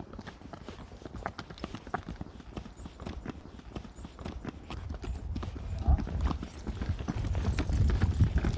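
Horse hooves clip-clopping along a trail in a steady run of hoof strikes, with a low rumble building in the second half.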